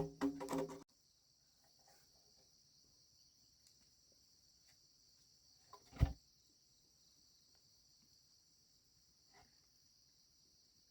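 Steady high chirring of insects in the background, with one short dull thump about six seconds in. Background music cuts off in the first second.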